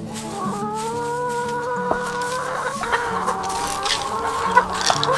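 Chickens clucking and a rooster crowing, one long held crow in the first few seconds.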